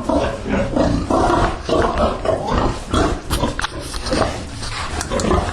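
Pigs grunting, a dense run of short, overlapping calls.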